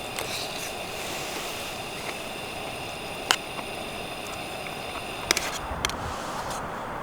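Wood fire burning in a Picogrill with a steady crackle and hiss, and a few sharp pops from the burning wood about three and five seconds in.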